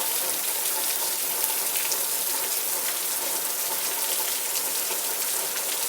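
Rain pouring down steadily, an even hiss of falling water.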